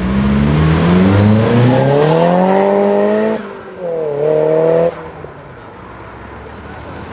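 Tuned Nissan Silvia's engine revving up under hard acceleration, the pitch climbing steadily for about three seconds. It drops sharply, rises again for about a second, then cuts off abruptly, leaving a lower background rumble.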